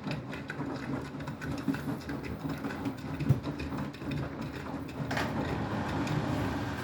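Beko WTK104121W washing machine running with its drum turning on a sudsy final spin, a steady low motor hum with many small knocks and rattles. There is a louder knock about three seconds in.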